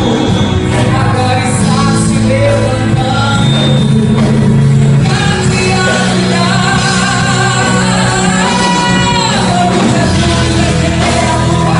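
Female vocalist singing a gospel song over instrumental accompaniment, holding a long note with vibrato about nine seconds in.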